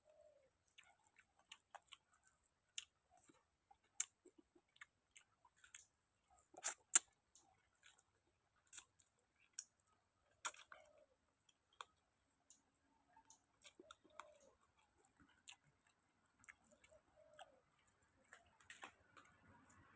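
A person chewing and eating grilled field rat with papaya salad. Faint, scattered crunches and mouth clicks, with one louder crunch about seven seconds in.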